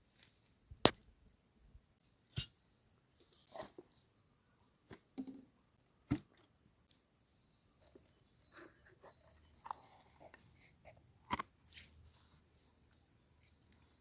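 Insects chirring steadily in a high-pitched, continuous drone, with a quick pulsed run of chirps a few seconds in. Scattered sharp clicks and knocks sound over it, the loudest just under a second in.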